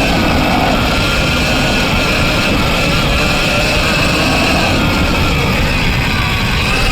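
Electric dirt bike riding: the Surron Ultra Bee's TORP TM50 Pro motor and controller give a steady high whine, with lower whine tones wavering slightly with the throttle. Under it runs a heavy, constant rumble of wind and the bike on rough ground.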